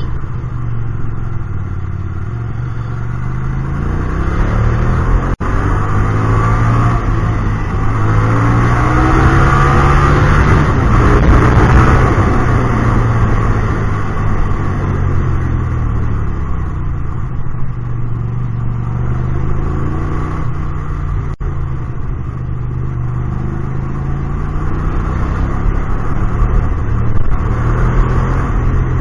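Hyosung GT250R's V-twin engine through an aftermarket exhaust, ridden in traffic. The revs climb to their loudest about ten to twelve seconds in, fall away, then climb again near the end.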